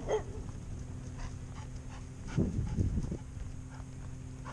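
A dog moving about close by: faint clicks and scuffs, strongest a little past the middle, over a steady low hum.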